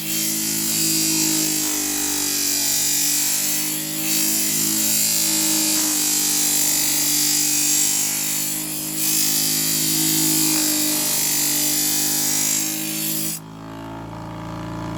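Scissor-sharpening machine grinding a kitchen knife blade: a steady motor hum under the hiss of steel on the grinding wheel. About 13 seconds in the grinding hiss stops abruptly as the blade comes off the wheel, leaving the motor running.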